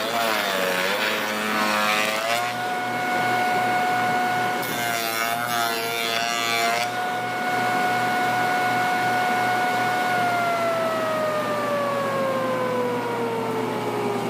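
A power saw running at a steady high whine, cutting wood twice: each cut adds a harsh rasping noise and pulls the motor's pitch down under load. About ten seconds in the saw is switched off and its whine falls steadily as the blade spins down.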